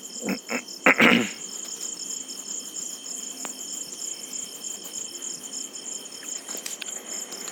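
Crickets chirping steadily in the background, a continuous high, finely pulsing trill. A few short sounds come in the first second, the loudest about a second in.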